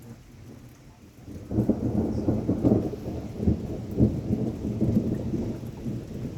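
Thunder: a loud, close rumble with sharp crackles that breaks in about a second and a half in and rolls on, over faint rain.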